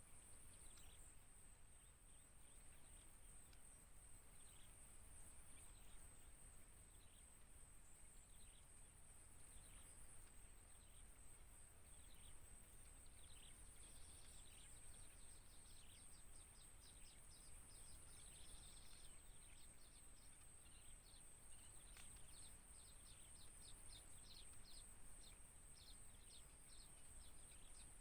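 Faint outdoor ambience: a steady high-pitched whine with many short high chirps, coming thicker in the second half.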